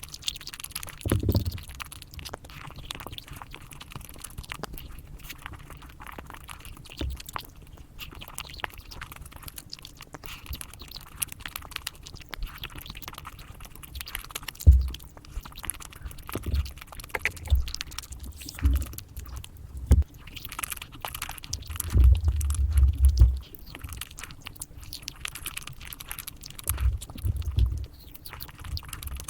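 Close-miked chewing, biting and crunching of chocolate, sped up. It is a dense run of small crackles and clicks, with now and then a low thud, the longest about three quarters of the way through.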